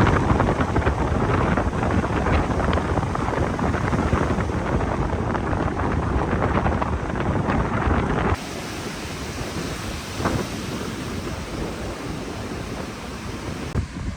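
Strong wind blowing over the microphone, a loud rushing noise with a heavy low rumble. About eight seconds in it drops abruptly to a quieter, thinner wind noise.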